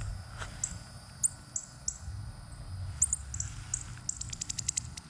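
Baby northern cardinals giving thin, very high squeaky chips, about a dozen spread through, with a fast run of about ten ticks a little past four seconds in.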